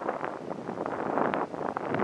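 Wind buffeting the microphone: an uneven rushing noise that swells and dips in gusts.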